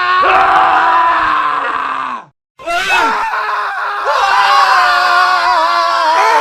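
Male screaming in two separate screams: the first holds and then cuts off about two seconds in. After a brief silence, a second strained, wavering scream starts and carries on to the end.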